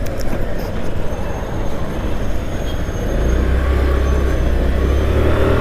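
Motorcycle riding along a road, its engine and road noise making a steady roar. A deeper rumble swells about three seconds in and holds.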